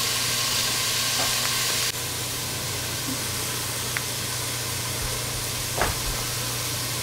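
Diced vegetables sautéing in olive oil in a stainless steel pot over a gas burner: a steady sizzling hiss over a low hum, dropping a little in level about two seconds in. A small click and then a soft knock come near the end.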